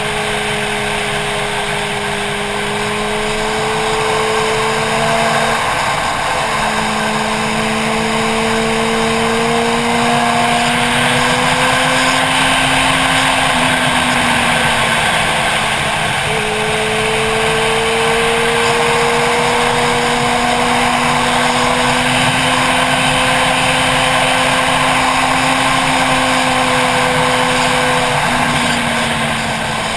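Motorcycle engine running at steady road speed, its pitch creeping up and dropping back briefly three times, under heavy wind rush on the helmet-mounted camera.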